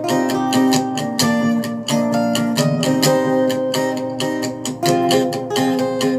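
Acoustic guitar strummed in a steady rhythm, as an instrumental backing track without vocals.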